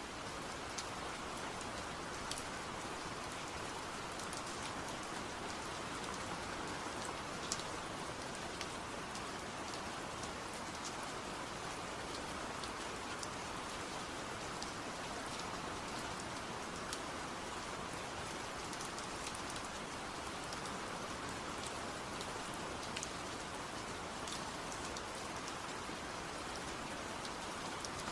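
Steady rain: a dense, even hiss of falling rain, with scattered sharper ticks of single drops hitting a surface.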